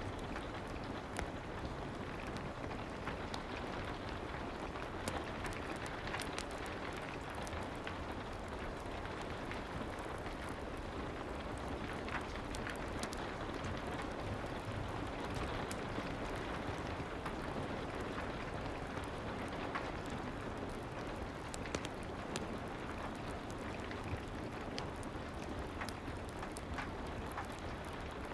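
Steady soft rain, an even hiss with scattered faint clicks.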